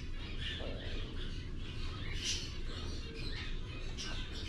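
Caged small parrots in a bird store chirping and squawking: many short, overlapping high chirps from several birds, with one louder squawk about two seconds in, over a steady low room hum.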